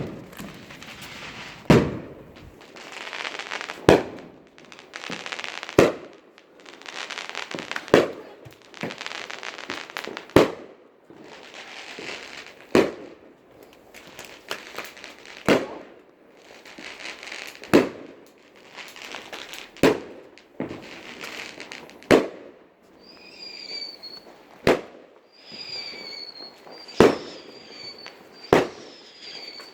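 Fireworks going off: a sharp bang about every two seconds, with crackling hiss between the bangs. In the last several seconds, short high whistles join in.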